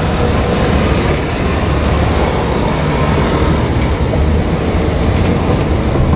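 Train running on the rails, a steady loud rumble of wheels and running gear.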